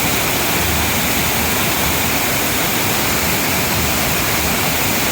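Large man-made waterfall pouring steadily: a loud, even rush of falling water.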